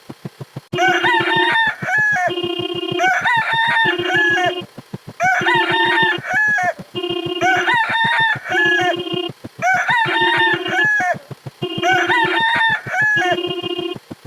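Rooster crowing sound effect, repeated about every two seconds, six crows in all, with a short steady tone sounding between the crows.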